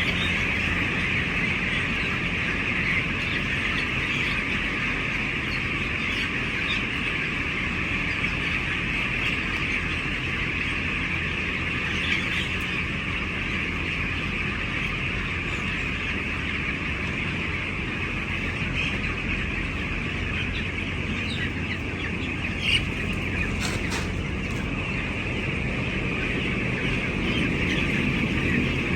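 A flock of broiler chickens cheeping all at once in a dense, steady chorus, over a low steady hum.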